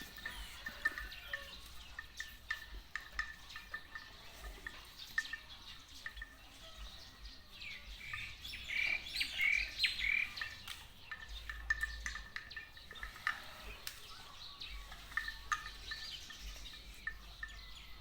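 Birds chirping, with a busier run of short calls about halfway through, over faint repeated ticks.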